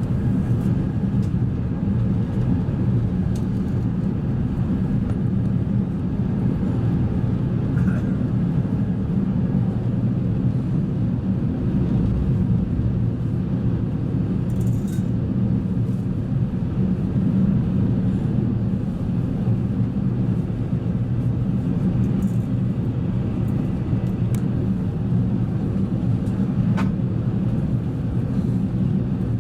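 Steady low drone inside the cabin of a Singapore Airlines Airbus A380, the noise of its engines and airflow, with a few faint clicks.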